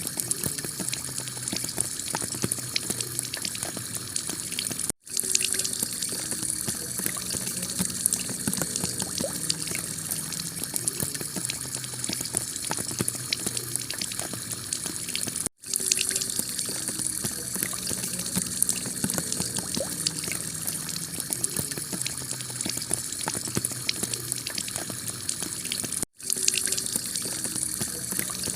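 Heavy rain pouring onto a clay tile roof: a dense, steady patter of many close drop hits. It cuts out for an instant three times, about ten and a half seconds apart, where the recording loops.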